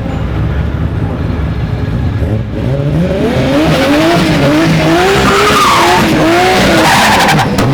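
A drag-racing car's engine accelerating hard down the strip, its pitch rising in repeated short surges and growing much louder from about three seconds in, then cutting off suddenly near the end.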